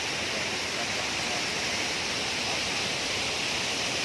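Waterfall water falling: a steady, even rushing.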